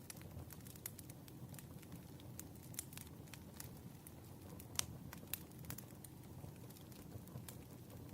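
Wood fire crackling: irregular sharp pops and snaps over a low, steady rumble of burning firewood, with one louder pop near the middle.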